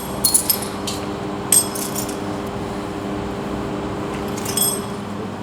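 Crushed aluminium pieces of a geyser coffee maker clinking together several times with bright metallic rings, over a steady machine hum.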